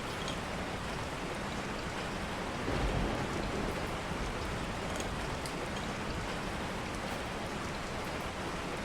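Steady rain falling, an even hiss with faint scattered drop ticks, and a brief low rumble about three seconds in.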